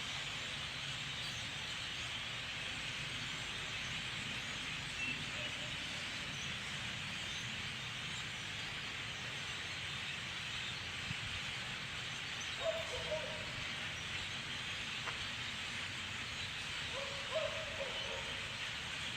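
Steady, dense chatter of a very large flock of birds calling all at once, with a low hum underneath. Two short, louder, lower calls stand out twice in the second half.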